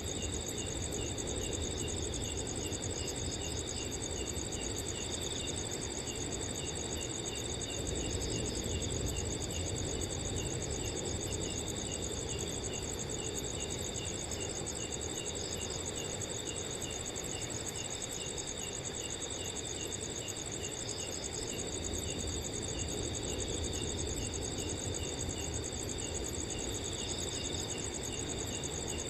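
Several crickets calling together: a high continuous trill, another cricket chirping steadily about twice a second, and occasional louder chirps. Underneath is a low, steady wind noise.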